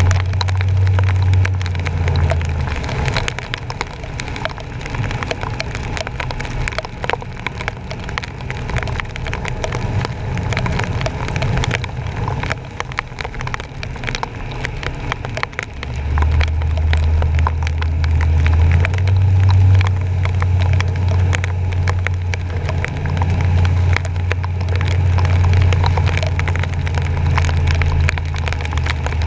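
Rain and water spray hitting a GoPro mounted on a truck's front bumper as the truck drives through flooded streets: a dense crackle of small impacts throughout, with a low rumble for the first few seconds and again from about halfway on.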